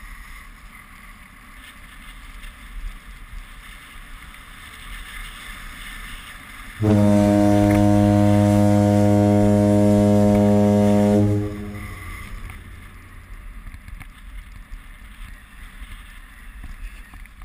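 A single long, deep horn blast, dead steady in pitch, lasting about four and a half seconds in the middle. Before and after it there is a faint rush of wind and skis running over snow.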